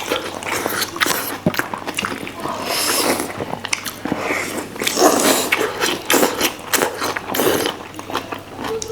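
Close-miked eating sounds: chewing and wet lip-smacking with many small mouth clicks as fatty pangas fish is eaten.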